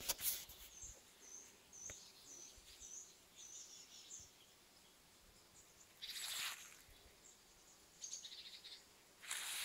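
A small bird singing: a short high note repeated about twice a second through the first four seconds. Later come a few brief noisy bursts.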